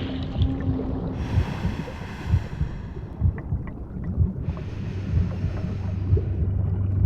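Underwater ambience: a steady low rumble with soft low thumps, broken twice by a couple of seconds of rushing hiss and bubbling, typical of a scuba diver breathing through a regulator. A low hum grows in the second half.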